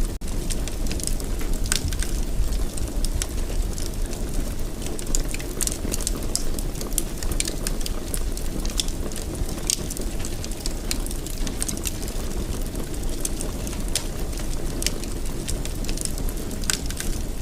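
Wood fire in a fireplace crackling, with many small irregular pops and snaps over a steady low rushing rumble. The sound drops out for an instant right at the start.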